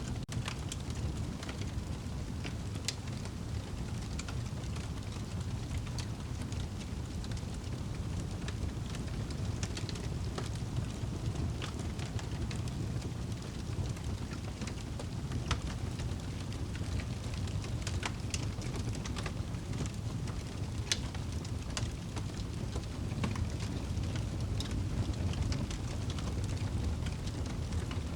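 Wood fire burning in a fireplace: a steady low rumble of flame with irregular sharp crackles and pops from the burning wood, roughly one every second or two.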